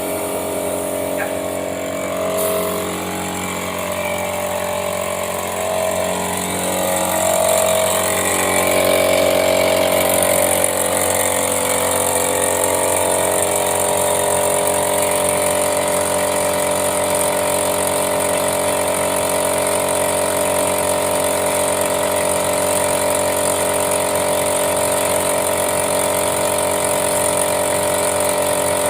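A motor running steadily with an even, multi-toned hum, a little uneven at first and slightly louder from about eight seconds in.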